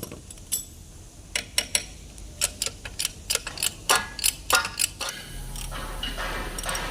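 A run of about a dozen sharp metallic clicks and taps at an uneven pace, typical of hand tools working on metal parts. About five seconds in, a steady low hum with a hiss starts.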